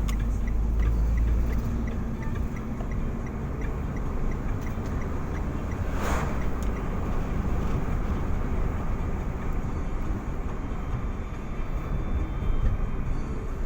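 Steady road and engine rumble of a moving vehicle. For the first five seconds or so there is a light ticking at about two a second, and there is a brief louder rush about six seconds in.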